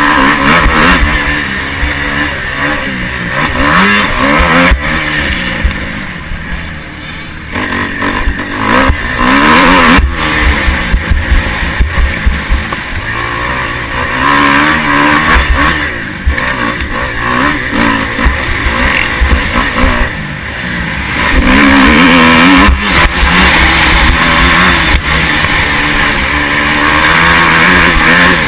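Motocross bike engine recorded from an onboard camera, revving up and dropping back again and again as the rider accelerates and shifts, over a constant low buffeting.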